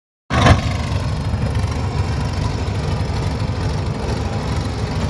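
Tractor diesel engine running steadily with a low, fast-pulsing rumble, cutting in abruptly a moment in.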